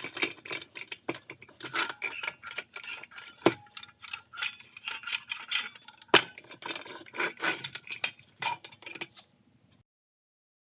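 Small metal parts being handled, a quick irregular run of light clicks and clinks that cuts off abruptly near the end.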